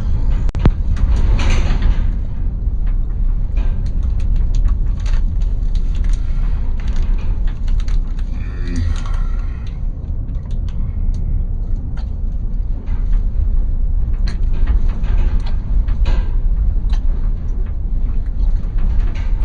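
Delivery van driving, heard from inside the cab: a steady low road-and-engine rumble with frequent rattles and clicks from the van's body and load.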